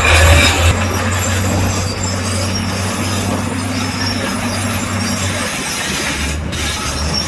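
Crawler bulldozer working: a steady low diesel engine hum under a constant rattle and hiss of steel tracks running.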